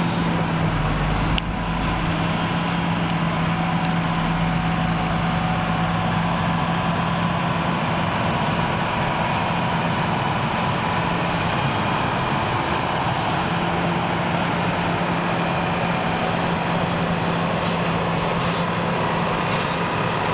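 Caterpillar 120H motor grader's diesel engine running steadily under work, a constant low drone with mechanical noise over it.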